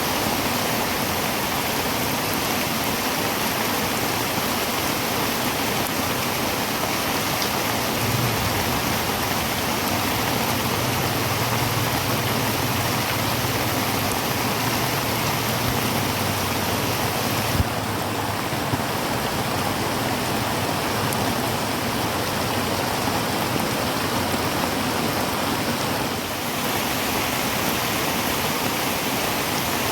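Heavy rain drumming steadily on a tin roof, an even hiss with no let-up. A low rumble sits under it for about ten seconds in the middle, and there is a single sharp tap a little past halfway.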